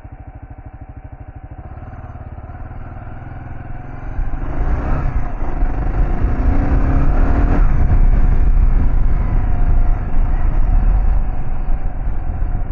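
Kawasaki KLR650's single-cylinder four-stroke engine running at low revs, then opening up and running much louder under load from about four seconds in as the bike is ridden off-road, with clatter from the bike over rough ground a couple of times.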